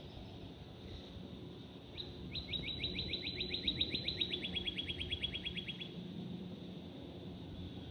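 A songbird singing a trill of rapid downward-slurred notes, about eight a second, lasting some four seconds, over a steady low background rumble.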